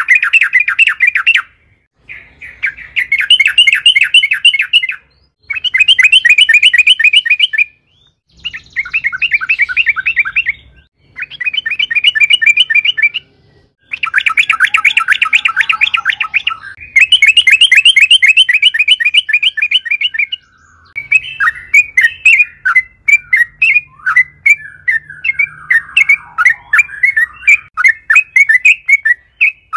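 Yellow-vented bulbul (trucukan) singing in repeated loud bursts of rapid chattering notes, each burst a second or two long with short pauses between. About two-thirds of the way through it changes to a looser, more varied run of notes.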